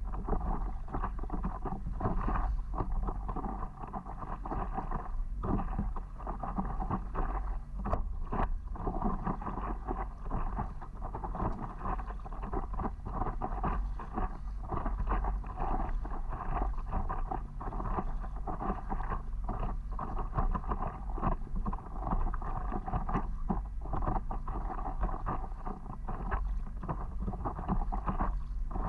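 Water splashing and sloshing around a stand-up paddleboard as it is paddled, with wind rumbling on the microphone.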